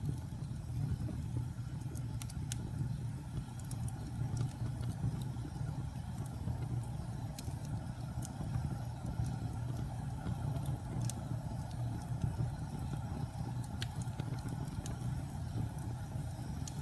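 Wood fire burning in a fireplace: a steady low rumble of flame with scattered sharp crackles and pops every second or two.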